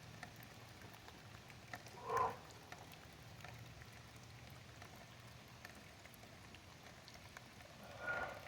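Light rain pattering in small ticks, with two short breaths, one about two seconds in and one near the end.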